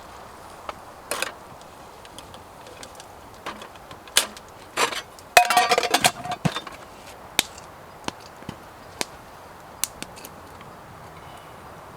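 Wood fire crackling, with scattered sharp pops and snaps at irregular intervals. About five seconds in, a denser burst of clattering with a brief ringing tone.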